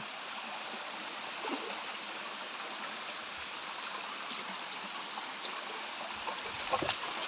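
River water flowing steadily, with a couple of faint knocks near the end.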